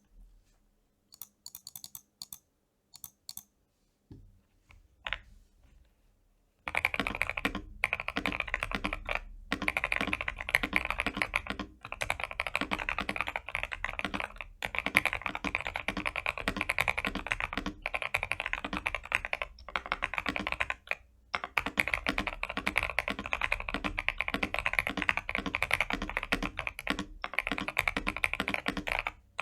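Typing on a Feker iK75 mechanical keyboard with lubed Gazzew Boba U4T tactile switches, PBT keycaps, and case and PCB foam. A few faint, scattered key clicks are followed, about seven seconds in, by fast continuous typing with a few brief pauses.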